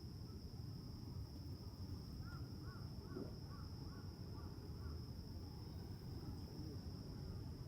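A bird calls a quick run of about seven short notes midway, over a steady high-pitched drone of insects and a low outdoor rumble.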